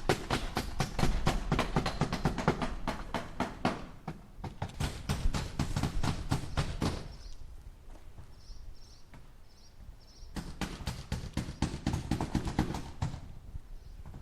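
Hammer driving nails in three quick runs of strikes, several a second, with short pauses between runs. Faint high chirps sound in the second pause.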